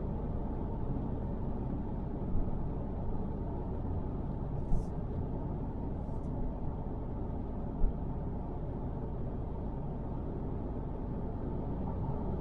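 Steady road and engine noise of a car driving, heard from inside the cabin, with two brief high ticks about five and six seconds in.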